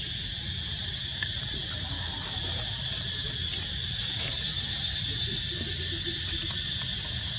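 Steady, unbroken high-pitched insect chorus, over a low steady rumble.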